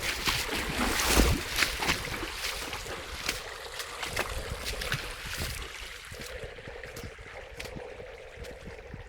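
Rushing water with wind buffeting the microphone and many short knocks and clicks, loudest in the first couple of seconds.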